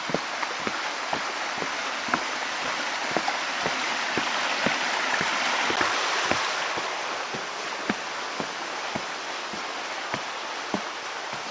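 Rushing water of a mountain stream, growing louder toward the middle and then fading, with footsteps at about two a second.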